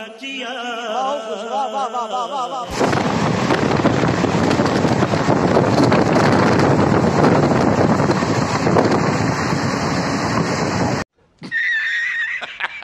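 Loud, steady rushing noise of a moving train heard at an open coach window: wheels running on the rails mixed with wind. It starts abruptly about three seconds in and is cut off about eleven seconds in.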